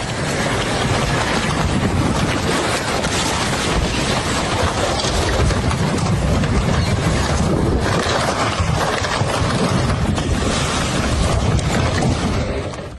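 Fast-flowing floodwater rushing loudly and steadily, mixed with wind noise on the microphone; it stops abruptly at the very end.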